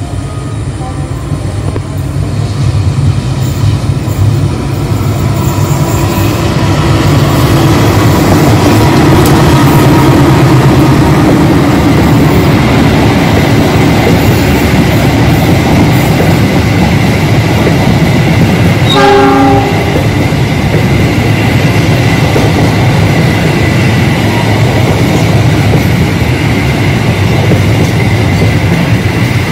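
GE CC206 diesel-electric locomotive and its passenger coaches passing close by: steady engine rumble and the clatter of wheels on rail, growing louder over the first several seconds as the train arrives. A short horn note sounds about two-thirds of the way through.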